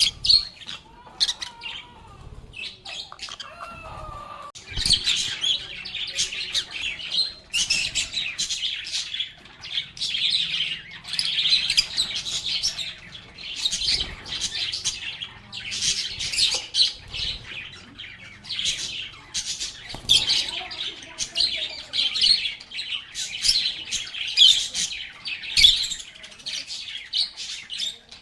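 Several lovebirds chirping and chattering: a few scattered calls at first, then from about five seconds in a dense, continuous high-pitched twittering.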